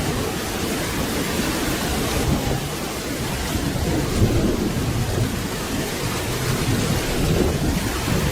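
Steady rain with a low thunder rumble running underneath.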